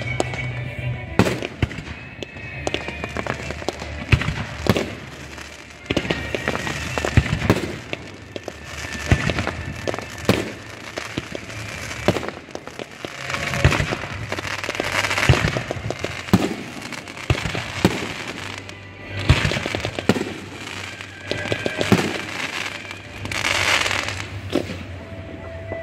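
Aerial fireworks bursting overhead in quick succession: many sharp bangs, with stretches of crackling about halfway through and again near the end.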